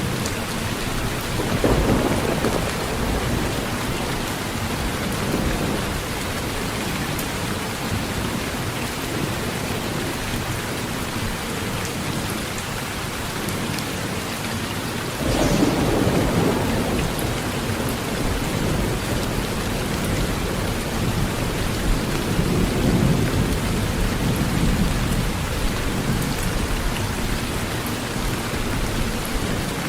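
Heavy rain pouring steadily on a tin roof, with thunder rumbling. A rumble swells about two seconds in, a louder one breaks in suddenly about halfway through, and another rolls a few seconds after that.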